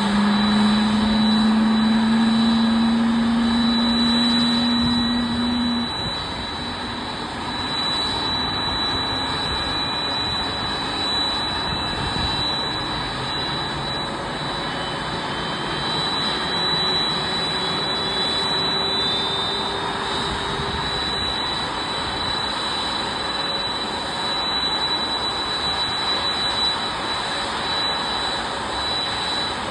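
Boeing 767-300ER jet engine starting up: a steady rush with a constant high whine, and a strong low hum that stops about six seconds in. Faint tones climb in pitch about halfway through as the engine spools up.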